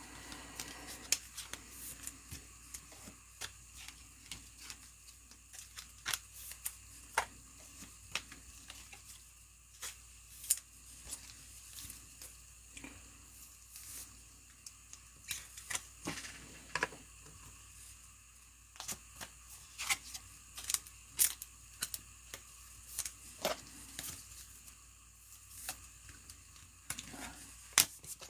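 Football trading-card packs and cards being handled at a table: scattered short clicks and taps, with soft rustles of wrappers and card stock.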